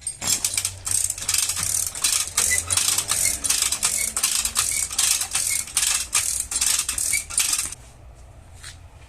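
Rapid light hammer taps on car-body sheet metal, about four a second with a faint metallic ring, stopping shortly before the end: tapping the panel back into shape in dent repair.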